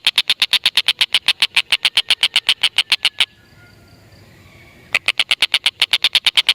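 Stork-billed kingfisher (tengkek buto) giving a long rapid cackle of sharp high notes, about eight a second; it breaks off about three seconds in and starts again after a pause of nearly two seconds.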